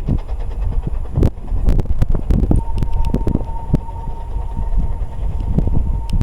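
Narrow-gauge steam locomotives standing at a station: scattered knocks and clanks over a low rumble, with a steady thin whistle-like tone coming in about halfway and holding on.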